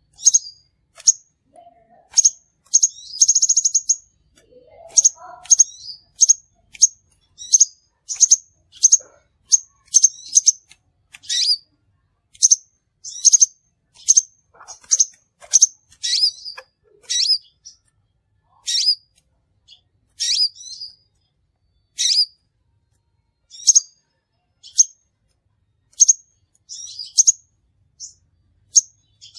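Crimson sunbird (sepah raja) giving short, sharp, high chirps, about one or two a second, with a brief buzzy trill about three seconds in. It is a lure call (suara pikat) meant to draw in sunbirds.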